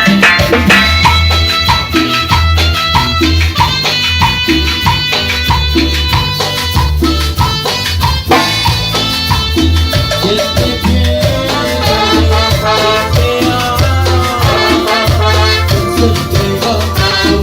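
Loud Latin dance music in a salsa or cumbia style, played through a large sound system: a heavy, pulsing bass beat with percussion and rattle-like shakers under a pitched melody.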